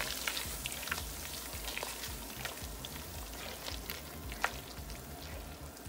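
Gumbo roux with chopped onion, bell pepper, celery and garlic, loosened with lager, sizzling steadily in an enameled cast-iron pot while being stirred with a spatula, with faint scattered scrapes and clicks.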